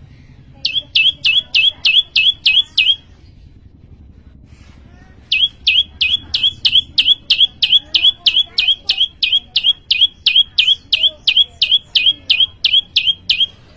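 Prenjak lumut songbird calling in fast runs of sharp, high, identical notes, about three or four a second. A short run of about two seconds comes first, then after a pause of two or three seconds a longer run of about eight seconds.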